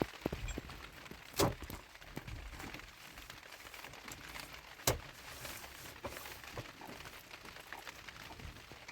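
A few sharp knocks or thuds, the loudest about one and a half and five seconds in, with faint rustling and small handling noises between them.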